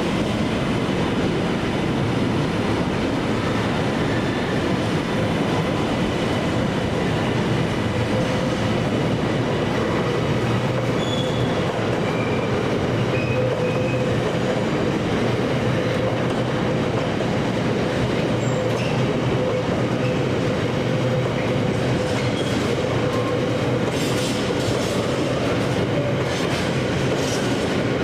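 A train running steadily past on the track: continuous wheel-on-rail rumble with faint wheel squeal, and a run of clicks over the last few seconds.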